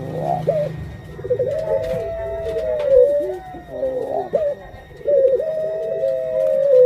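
A breeding puter pelung dove cooing: two long, drawn-out coos that hold their pitch and sag at the end, with shorter broken coo notes between them.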